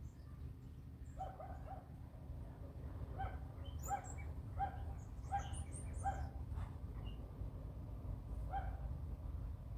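Short animal calls repeated about every half second to second, some in quick runs, with thin high bird chirps among them over a steady low hum.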